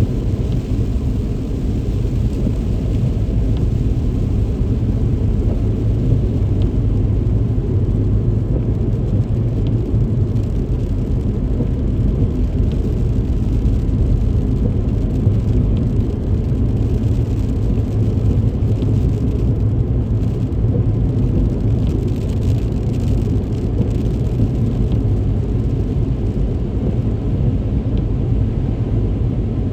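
Car driving through heavy rain on a wet road: a steady low rumble of road and engine noise, with a few faint scattered ticks.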